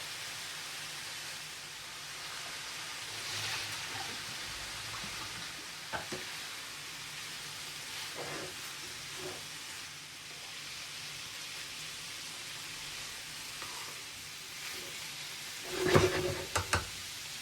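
Food frying in a pan with a steady sizzle. A few light clicks come through, then a short, loud clatter of knocks near the end.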